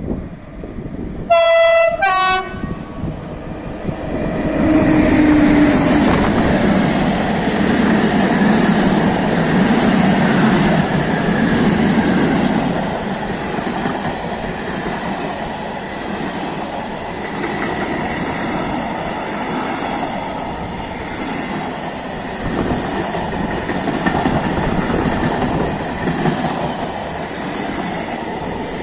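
Train horn sounding two short warning blasts about a second and a half in. Then a long freight train of open wagons and tank wagons rolls past close by, with a steady rumble and the clatter of wheels on the rails.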